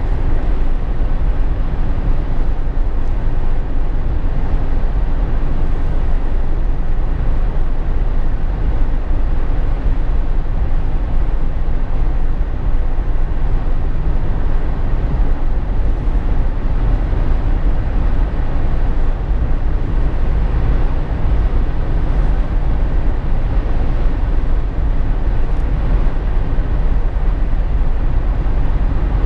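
Steady cabin noise inside a Jeep Wrangler JK on the move: engine and road rumble with wind and tyre noise, deep and unchanging.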